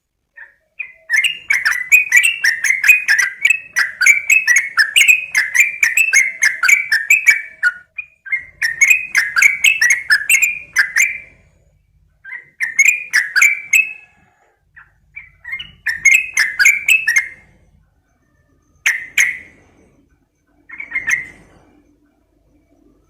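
Yellow-vented bulbul (trucukan) singing loud, bubbly chattering phrases: one long run of about seven seconds, then three shorter bursts separated by pauses, then two brief single calls near the end.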